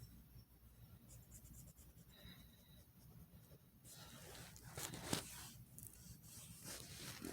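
Faint scratching of a drawing tool stroking across paper, with a few quick strokes in the second half, the strongest about five seconds in.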